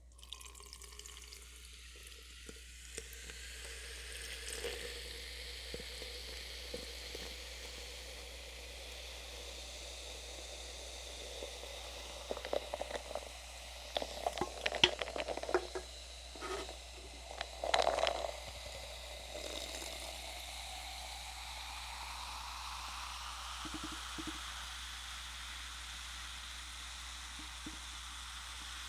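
A drink being poured into a cup, with a steady hiss throughout. Its note rises slowly over the second half as the cup fills, and a cluster of clicks and knocks from handling the cup and bottle comes around the middle.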